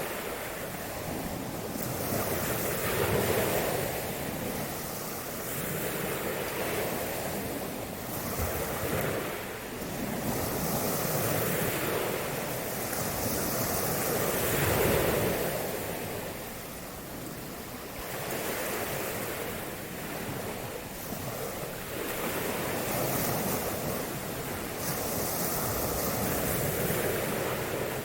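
Waves washing onto a shore, the surf swelling and ebbing every three to four seconds.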